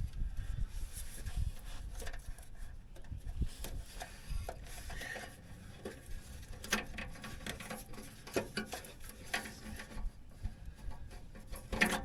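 Hands handling wiring and plastic light parts: scattered small clicks and rubbing, with a sharper click near the end, as wire connectors are joined.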